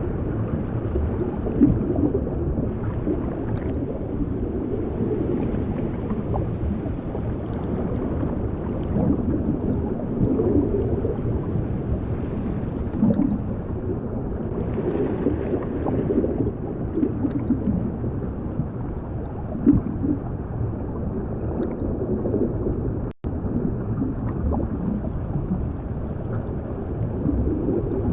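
Underwater sound effect used for drowning: bubbling and gurgling water over a steady low, muffled rumble. It cuts out for an instant about two-thirds of the way through.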